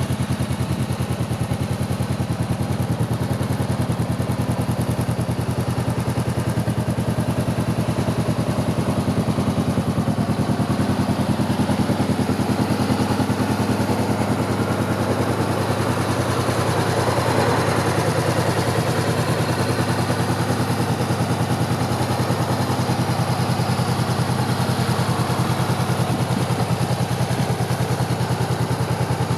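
Honda CBR500R parallel-twin engine idling steadily through an Akrapovic slip-on exhaust, with a slight swell in level a little past halfway.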